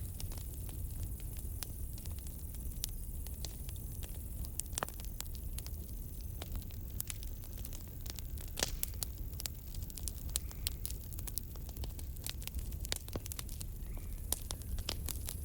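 Campfire crackling: irregular sharp pops and snaps, a few louder ones about five and nine seconds in, over a steady low rumble of the burning fire.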